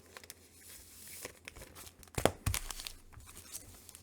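Comic books being handled and shuffled, with rustling and crinkling and a few sharp taps, the loudest two a little after two seconds in.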